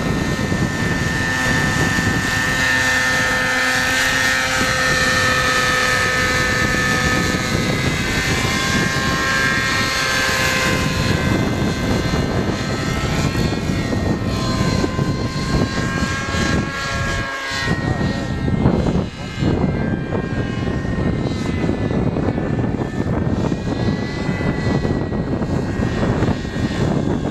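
Radio-controlled model aircraft in flight, its engine a whine whose pitch slowly rises and falls as it manoeuvres, over heavy wind noise on the microphone.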